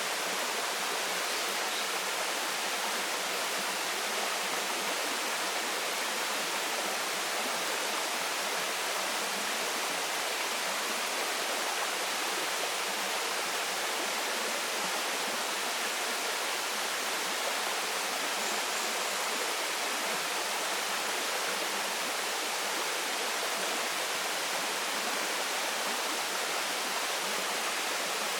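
Waterfall falling steadily: an even, unbroken rush of water with little bass.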